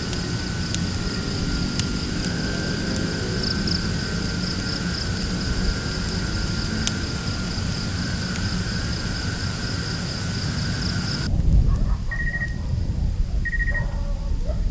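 Wind rumbling on the microphone under a steady high insect drone. About three-quarters of the way through, the drone cuts off and the wind gusts louder, with two short high chirps.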